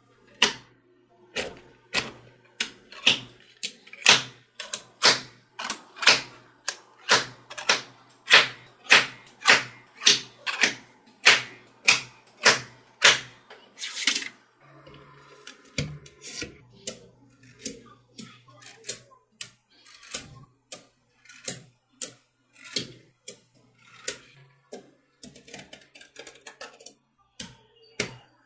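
Small magnetic balls snapping together with sharp clicks, about two a second, as a model is built from them; the clicks thin out for a moment about halfway through.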